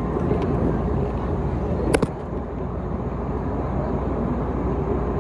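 Steady cabin noise of an Airbus A321neo in its climb: the engines and airflow running as an even, low rush. One sharp click about two seconds in.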